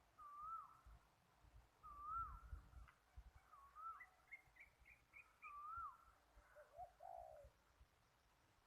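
Birds calling: a repeated whistled phrase that rises then dips, about every second and a half, a quick run of short higher notes in the middle, and a lower, burry call near the end.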